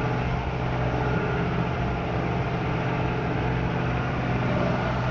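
Off-road 4x4's engine running steadily as it drives along a muddy dirt track, heard from inside the cabin as a constant low drone with road noise.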